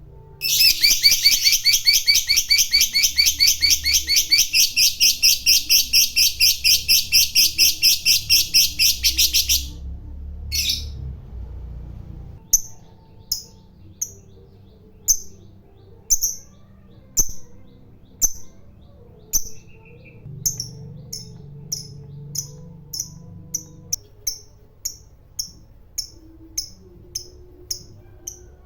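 Lovebird giving a long ngekek, a shrill, rapidly pulsing chattering trill that lasts about nine seconds. It is followed by a short burst and then single sharp chips, about one or two a second.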